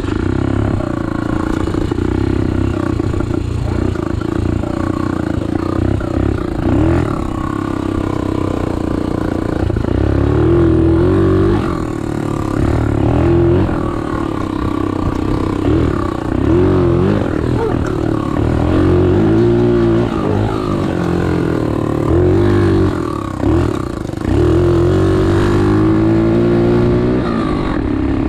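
Chinese 125cc pit bike's single-cylinder four-stroke engine running and being revved up and down repeatedly as the bike is ridden, the pitch climbing and dropping every few seconds.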